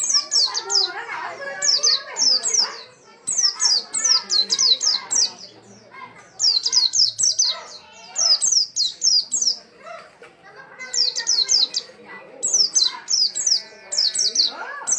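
White-eye singing: about seven bursts of rapid, high, downward-slurred notes, each burst a second or so long, with short pauses between them.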